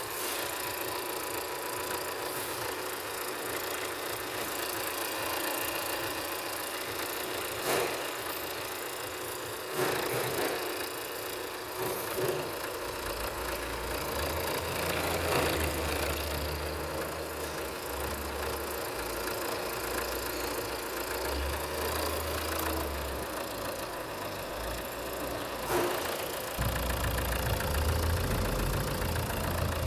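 Opel Insignia 2.0 CDTi (A20DTR) four-cylinder turbodiesel running steadily at idle during an engine test. A few sharp knocks come through, and low rumbles come and go over the second half.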